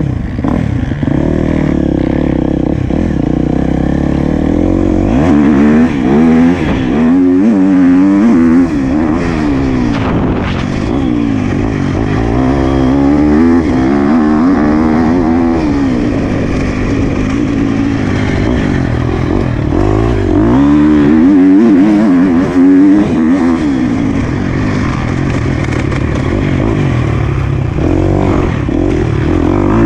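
Motocross bike engine revving up and down again and again, its pitch rising and falling as it is ridden hard on a dirt track.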